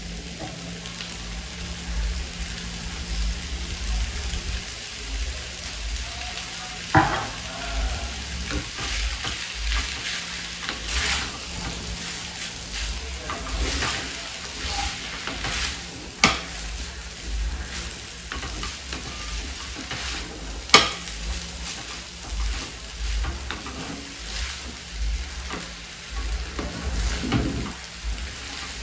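Chow mein noodles stir-frying in a hot pan: a steady sizzle with the spatula scraping and stirring, and three sharp knocks of the utensil against the pan.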